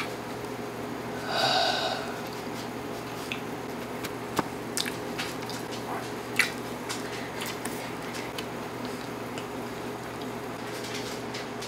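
A person chewing a mouthful of cheesy fried hash browns: wet mouth clicks and smacks scattered through, the sharpest about six seconds in, over a steady low hum. A short voiced noise comes from the mouth about a second and a half in.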